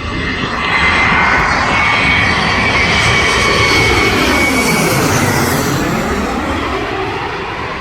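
Jet airliner passing low overhead. Its engine roar swells about a second in, carrying a steady high whine, sweeps down and back up as it goes over, and then slowly fades.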